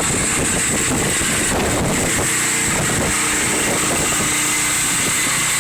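Hurricane wind blowing hard and buffeting the microphone, a loud steady rush. About two seconds in, a steady engine-like drone joins it.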